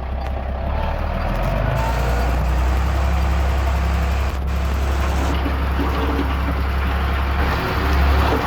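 Heavy construction machinery's diesel engine running steadily under load: a deep, continuous engine hum, a little louder from about two seconds in.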